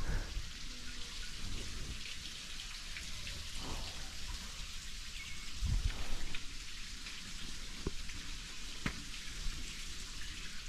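Steady hiss of falling water with scattered drip-like ticks, and a low rumble that swells briefly about six seconds in.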